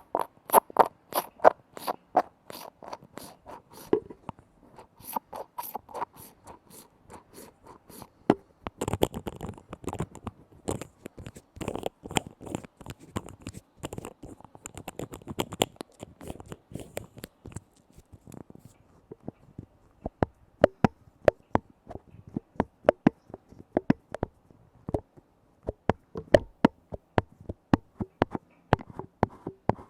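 Container lids being tapped in quick, uneven runs of sharp taps for ASMR, with a scratchy scraping sound under the taps through the middle stretch.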